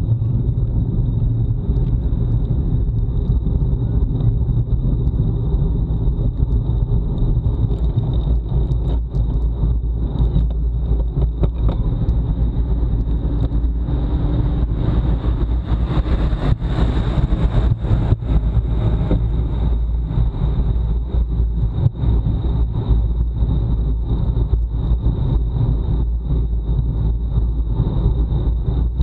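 Wind buffeting the microphone of a bike-mounted action camera at racing speed: a loud, steady low rumble, with a thin high whine running under it. The hiss swells for a few seconds around the middle.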